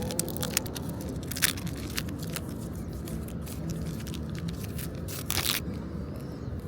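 Trading card booster pack wrappers crinkling and cards being handled, a run of small crackles and scrapes over a steady low background hum.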